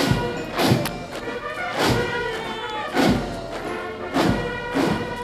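Military band playing a march: held brass chords over a heavy, regular bass-drum beat, a little under two beats a second.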